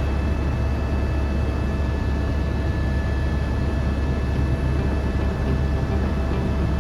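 Helicopter in flight: a steady low drone from the rotor and engine, with a faint steady whine above it.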